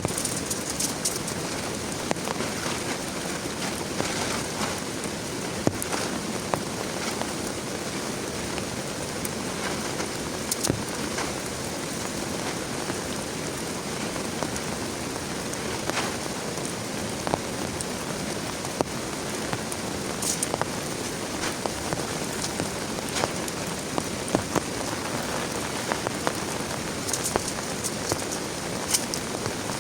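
Heavy rain falling steadily, with scattered sharper drops striking close by.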